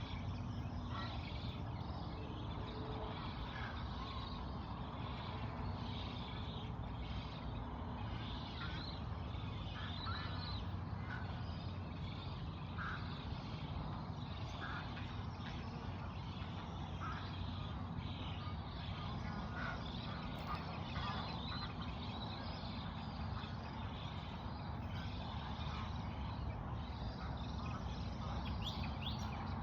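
Birds calling in short, scattered notes over a steady low rumble.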